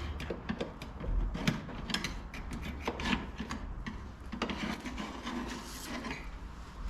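Screwdriver scraping and picking at a piece of stick jammed in the mounting channel for a canvas Jeep top: a run of irregular scratches and clicks. The stick plugging the channel is what kept the top from sliding in.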